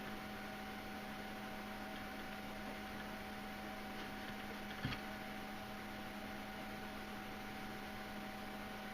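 Steady low electrical hum with a single sharp click about halfway through.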